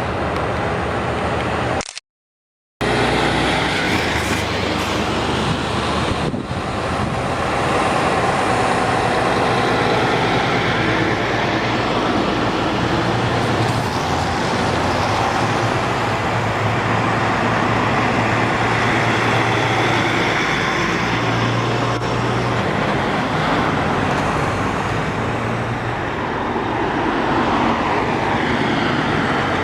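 Heavy trucks driving past in a convoy, their engines running steadily alongside tyre and road noise. The sound cuts out completely for under a second about two seconds in.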